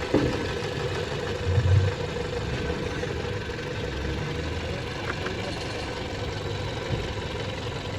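Toyota Corolla XLi engine idling steadily, with a brief louder low swell about two seconds in.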